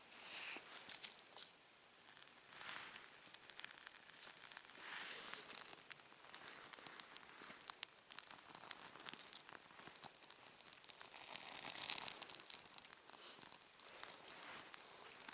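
Dry birch bark and tinder crackling and rustling as a campfire is lit with a ferro rod. There are many small sharp crackles and a few longer scraping swells, the loudest one near the end.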